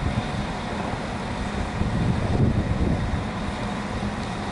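Class 195 diesel multiple unit running slowly into a station platform, its underfloor diesel engines giving a steady low hum.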